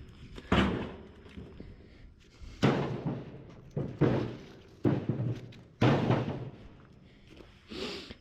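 Pieces of cut tree wood being thrown one after another onto a load, each landing with a heavy thud: about seven irregularly spaced thuds.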